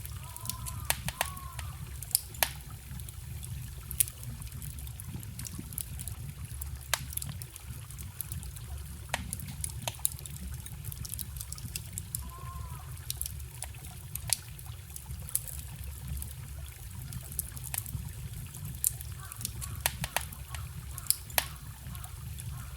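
Wood fire crackling with frequent sharp pops, over a small stream that trickles and gurgles steadily.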